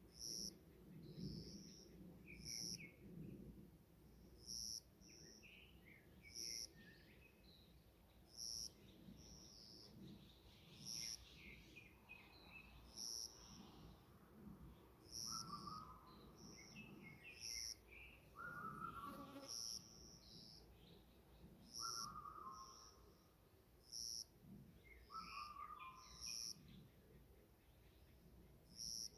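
Faint forest birdsong from several birds: one bird repeats a short, high call about every two seconds, others chirp in between, and a lower short call comes four times in the second half.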